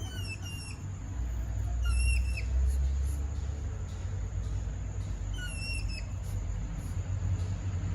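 Pygmy hedgehogs mating, giving high-pitched whistling chirps in three short bursts, each of two or three falling notes, over a steady low rumble.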